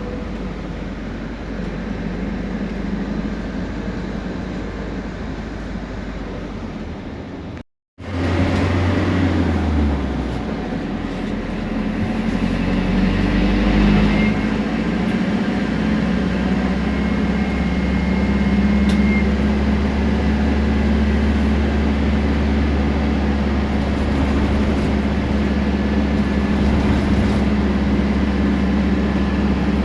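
Temsa Prestij SX midibus under way: a steady diesel engine drone with a faint high turbo whine. The sound cuts out for a moment about 8 seconds in, then returns louder as the engine pulls and its pitch rises before settling to a steady run.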